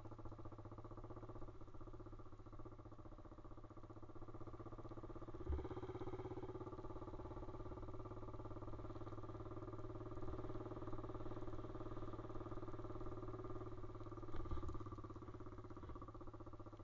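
Pit bike's single-cylinder engine running steadily, its pitch holding fairly even, with a brief thump about five seconds in and another near the end.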